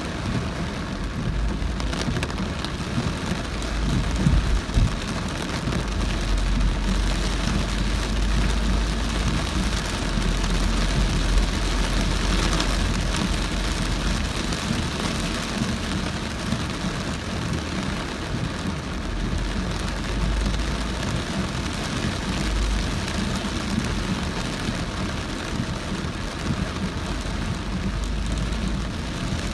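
Heavy rain pounding on a moving car, with the low rumble of the car and its tyres on the wet road underneath.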